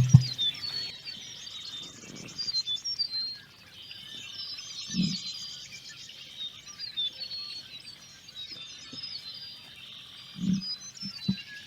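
Small birds chirping and calling with short, quick trills, over a steady high background hum. A low, brief sound comes twice, about halfway through and near the end.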